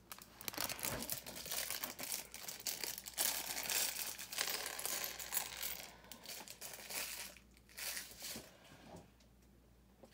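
Plastic LEGO pieces clicking and rattling as hands sort and fit them, with crinkly rustling mixed in. It dies down to near quiet about a second before the end.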